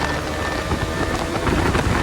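Motorcycle fitted with an aftermarket exhaust running, a dense rumbling noise that grows a little louder about a second and a half in.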